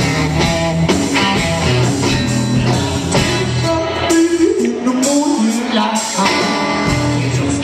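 A live blues-rockabilly band playing loudly, with guitar and drums, and a voice singing over them.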